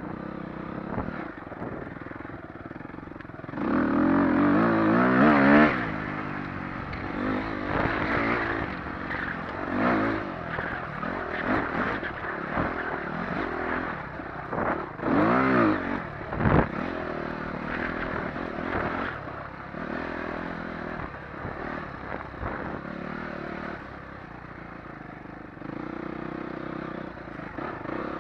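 Dirt bike engine revving up and easing off as it is ridden. The hardest bursts of throttle come about four seconds in and again around fifteen seconds in.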